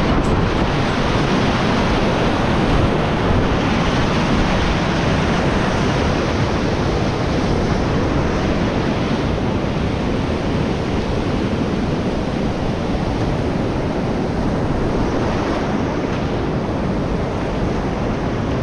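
Steady, loud rush of whitewater rapids on a creek, heard from close on the water.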